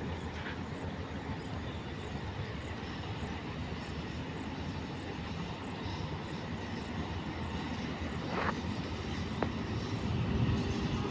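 Distant electric locomotive hauling a train as it approaches: a steady low rumble that grows louder near the end, with two brief sharp sounds about two-thirds of the way through.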